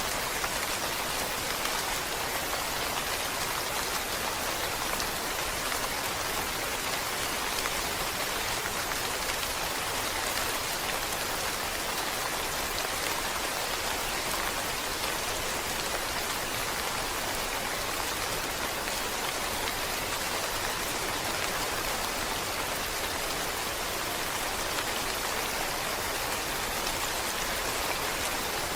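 Steady rain falling, an even, unbroken hiss of many drops with no single drop or strike standing out.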